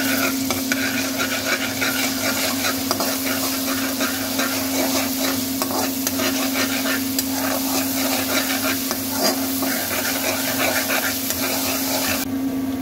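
Garlic-ginger paste sizzling in hot ghee in an aluminium wok, with a metal spatula scraping and clicking against the pan as it is stirred. A steady low hum runs underneath.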